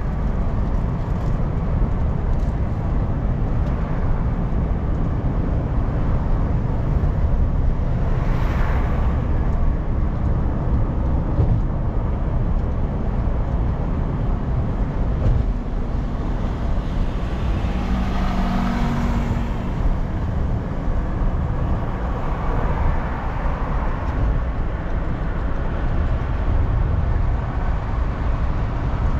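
Steady in-car road and engine noise of a car driving through city streets, a continuous low rumble. Two brief swells of noise come about eight seconds in and again about nineteen seconds in.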